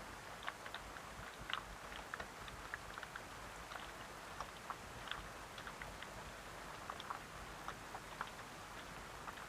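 Rain falling steadily: a soft hiss with many scattered, irregular ticks of drops striking close by.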